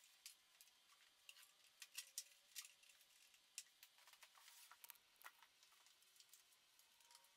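Near silence with faint, scattered small clicks and ticks, irregularly spaced.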